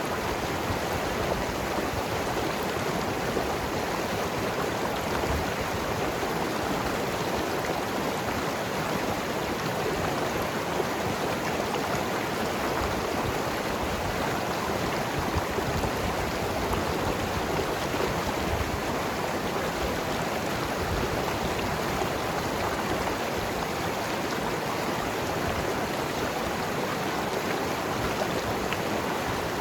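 Mountain river flowing and gurgling over rocks, a steady rushing of water.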